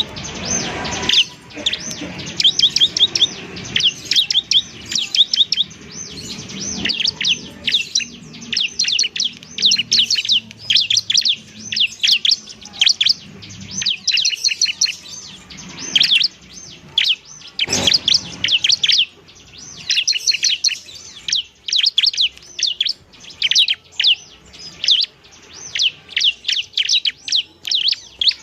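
Bar-winged prinia (ciblek) singing: fast, repeated high chirping phrases, rapid trills and sharp notes in close succession with brief gaps between phrases.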